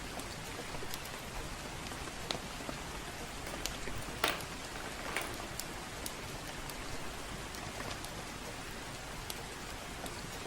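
Steady gentle rain, with scattered sharp crackles and pops from a wood fire in a fireplace, a couple of the louder pops about four and five seconds in.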